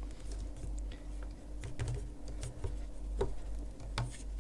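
Light, irregular clicks and soft rustling from a crochet hook and yarn as stitches are worked.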